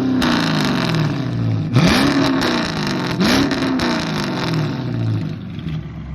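Straight-piped 5.7L Hemi V8 of a Dodge Charger R/T, with no mufflers, resonators or cats, being revved: it falls back from one rev, then is blipped sharply about two seconds in and again more lightly about three seconds in, each time dropping back to a loud, lumpy idle.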